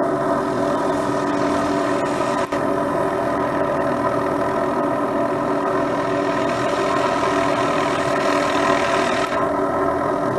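MD500 turbine helicopter running steadily, its engine and rotors giving a constant several-toned whine, with a brief dropout about two and a half seconds in and a hiss that builds near the end and cuts off suddenly.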